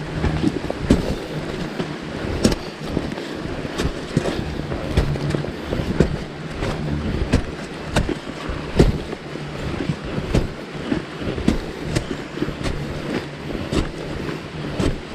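Hand digging into earth with a knife: irregular sharp knocks and scrapes of the blade striking and scraping soil, a few every second.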